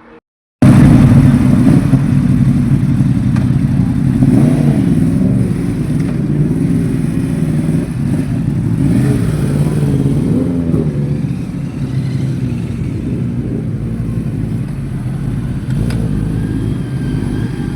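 Superbike engine running loud, cutting in abruptly about half a second in, with a deep exhaust note whose pitch wavers now and then.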